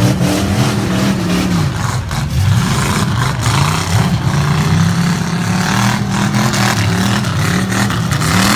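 Race truck engines revving up and backing off again and again as they lap a figure-8 track, the pitch rising and falling every second or so, with several engines overlapping.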